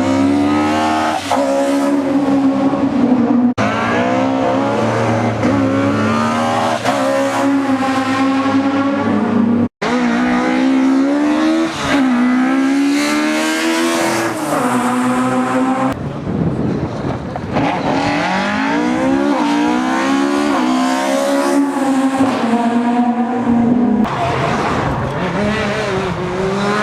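Rally car engines at full throttle, pitch climbing and dropping again and again through gear changes, over a hiss of tyre and road noise. The sound changes abruptly four times as one car's run gives way to another's.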